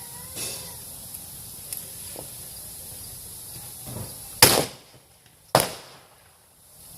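Two loud gunshots from blank-firing guns, about a second apart near the end, with a few fainter pops of more distant shots before them.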